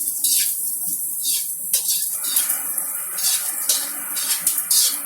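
Chicken nuggets frying in hot oil in a pan: a steady sizzle with irregular crackles and pops.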